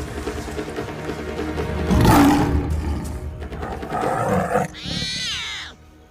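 A young tiger cub roars and snarls several times over background music. The loudest roar comes about two seconds in, and a falling call comes near the end.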